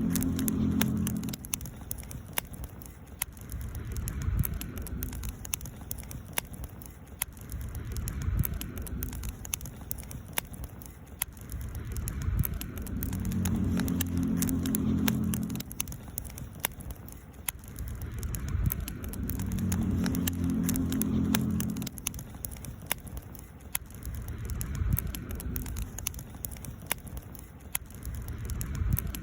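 Wood campfire crackling with frequent sharp pops and snaps, over a low hum that swells and fades about every six seconds.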